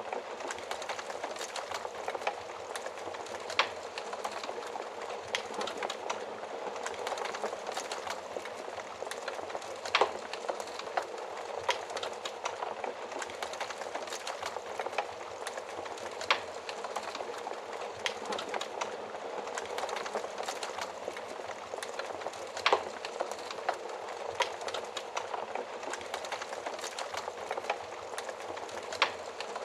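Wood fire burning inside an oven: a steady hiss of flames, dense with small crackles and a sharper pop every few seconds.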